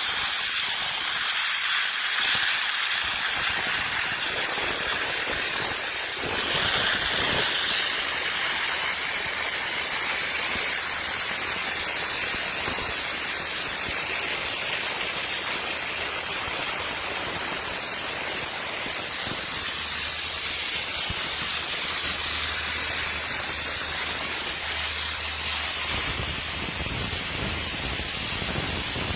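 Dry ice blaster running: a steady, loud hiss of compressed air and dry ice pellets from the blast nozzle as it strips old factory foam.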